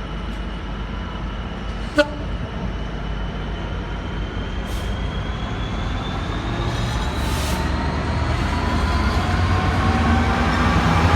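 Freight train hauled by a Class 66 diesel locomotive running through the station, a steady low rumble with faint whines that rise slowly in pitch as it gathers speed, growing louder toward the end. One sharp short sound about two seconds in.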